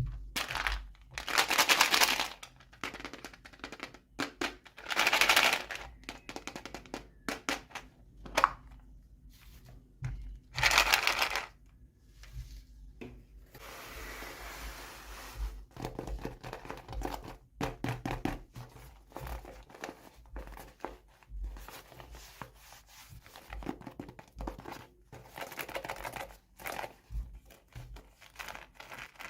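Toy packaging being handled and torn open: three louder tearing, crinkling bursts in the first dozen seconds, then softer rustling and many small clicks and taps.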